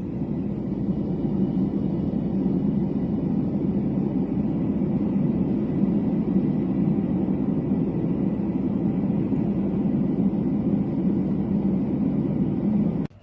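Yogasleep Duet sound machine playing a steady, deep, even noise sound, switched on at the start and cut off suddenly near the end.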